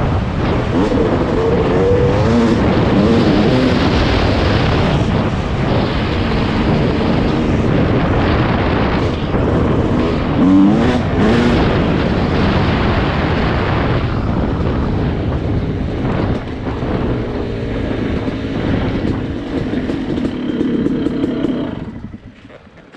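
Yamaha YZ250 two-stroke dirt bike engine running hard on the trail, revving up and down as the rider works the throttle, under a heavy rush of wind and riding noise. The sound falls away sharply near the end.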